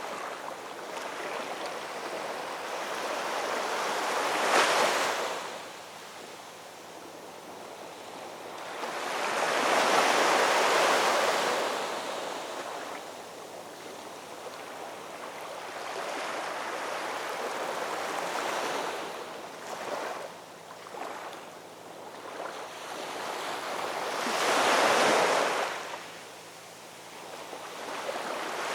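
Ocean waves breaking and washing on a shore, the surf swelling and falling back; three louder breakers come about 4 s, 10 s and 25 s in.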